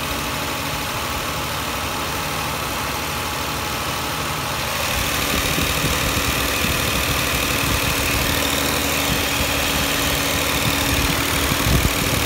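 Infiniti I30's 3.0-litre V6 idling under the hood while it draws in SeaFoam spray. About five seconds in, a steady rush of air comes up over the engine noise and stays: the electric radiator cooling fans switching on.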